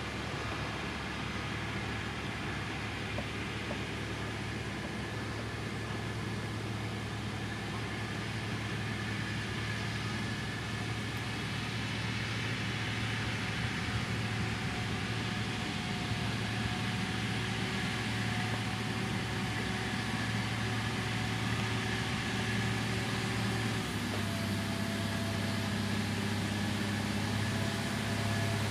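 Diesel engine of heavy road-building machinery running steadily, with a slight change in engine note a few seconds before the end.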